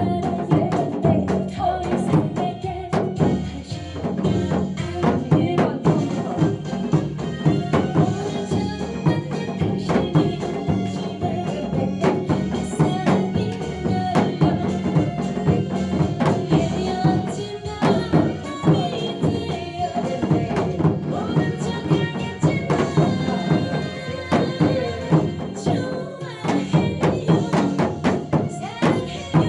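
Janggu (Korean hourglass drum) played in a disco/gogo beat along with a recorded trot song, with sharp drum strokes over the backing track.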